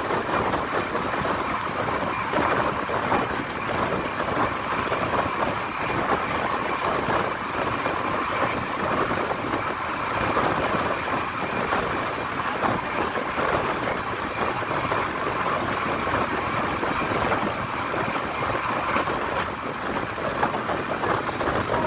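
Express passenger train coach running at speed, heard from its open window: a steady rumble and clatter of wheels on the rails.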